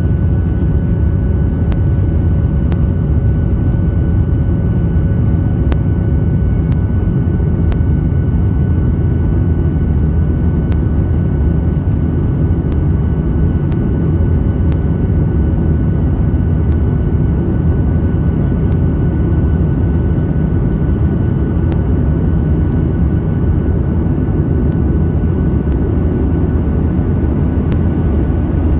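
Steady cabin noise of a Boeing 737-800 in flight, heard from inside the passenger cabin: a loud, even low rumble of its CFM56 jet engines and the airflow, with a few faint steady tones above it.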